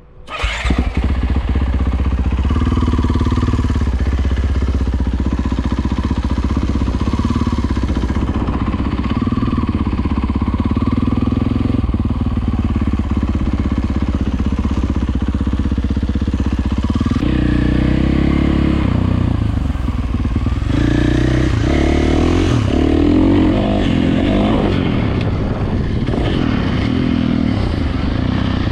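Dirt bike engine running loud and steady, then changing pitch and revving unevenly from about two thirds of the way in.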